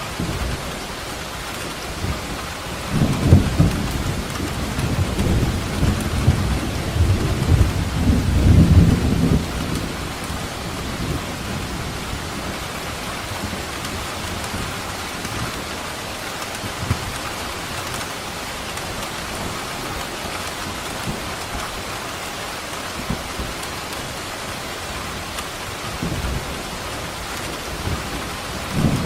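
Steady rain falling, with a rolling thunder rumble that builds about three seconds in and lasts several seconds, and another rumble starting near the end.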